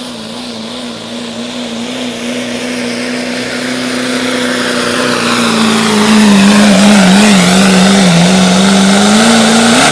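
Diesel pickup truck pulling a sled at full throttle, its steady engine note growing louder as it comes closer. About halfway through the pitch sags a little as the engine pulls down under the sled's load, then climbs back near the end.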